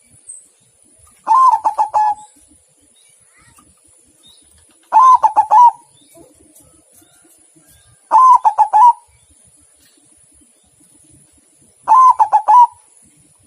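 Zebra dove (perkutut) singing: four short rapid cooing phrases, each under a second long, repeated every three to four seconds.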